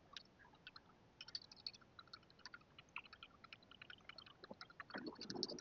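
Faint water lapping and dripping, heard as a scatter of small irregular ticks. A louder muffled rustle starts near the end.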